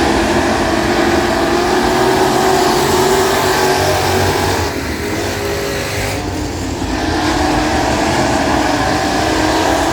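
Several dirt-track race car engines running together on the oval, a dense steady drone, slightly quieter for a stretch between about five and seven seconds in.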